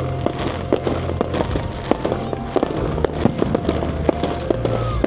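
Fireworks display: a dense run of crackling pops and sharp bangs, several a second, over music with held notes and a bass line.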